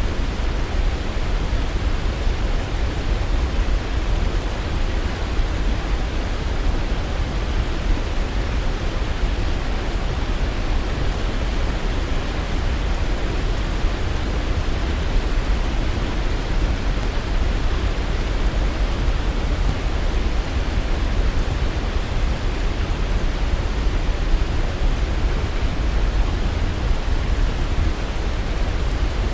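Waterfall: a steady, even rush of falling water, deep-toned and unchanging.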